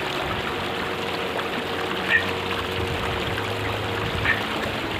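Mountain stream of cold meltwater rushing steadily over rocks, with two brief high chirps about two and four seconds in.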